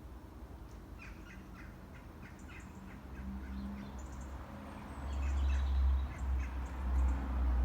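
Birds calling in short chirps, several in quick series. About five seconds in, a loud low rumble comes in and stays.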